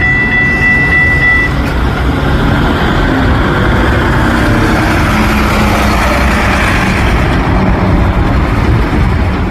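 A train passing close by: a loud, continuous rumble and rattle of the train going past. A high steady tone sounds at the start and cuts off about a second and a half in.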